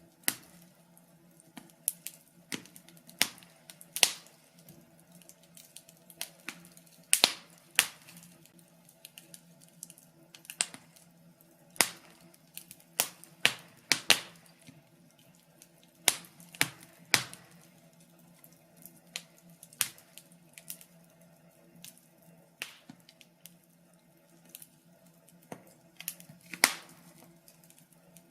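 Wood fire crackling: sharp, irregular pops, about one a second and sometimes in quick clusters, over a faint steady background.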